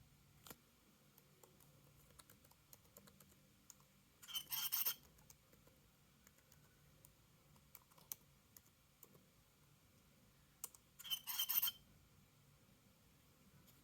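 Broken 2019 MacBook Pro 16" giving its strange alien sound: a short crackling, chirping burst twice, about seven seconds apart, with faint ticks between, a sign of the laptop's fault.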